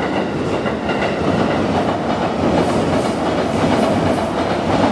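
Light rail train running past on the track, a steady loud rumble and rush of wheels on rail.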